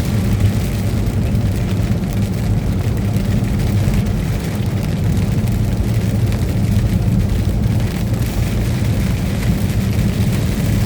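Steady low drone of a truck's engine and road noise, heard inside the cab while driving.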